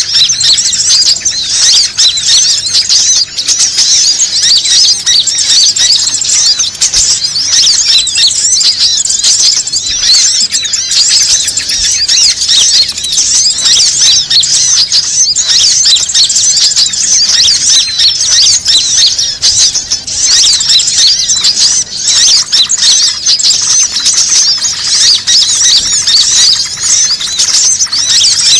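Bird-lure recording: a loud, dense chorus of many small birds chirping rapidly and without a break, all high-pitched.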